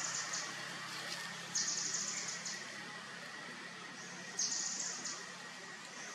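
An insect calling: a high, fast-pulsed buzzing trill about a second long, repeated twice a few seconds apart over a faint steady background.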